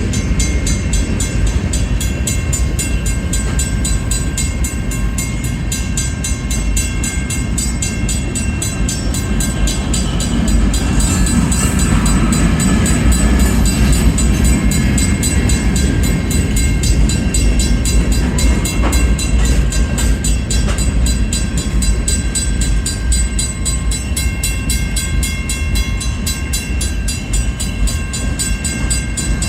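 Long freight train rolling slowly past on the rails: a steady low rumble of the cars, swelling somewhat partway through. A mechanical grade-crossing bell rings rapidly and continuously over it.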